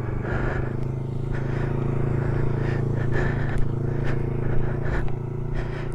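A motorcycle engine running at a steady speed, with a few faint clicks and scrapes over it.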